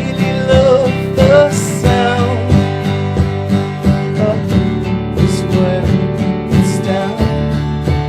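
A live band playing an instrumental passage of a song: strummed acoustic guitar keeping a steady rhythm, with a wavering melody line over it.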